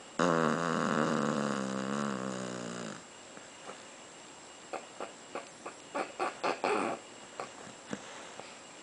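A sleeping pet bird snoring: one long, wavering snore lasting nearly three seconds, then a string of short, quieter snores at uneven intervals.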